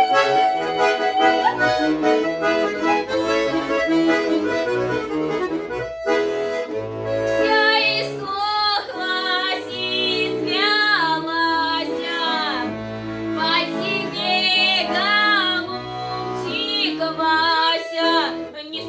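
Accordion playing a Russian stradaniya folk tune in full chords. From about halfway through, a girl's solo folk singing with sliding notes comes in over the accordion.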